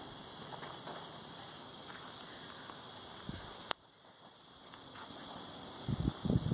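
Wood campfire burning with a steady hiss and a few faint crackles. A sharp click comes a little past halfway, after which the sound drops and slowly builds back up.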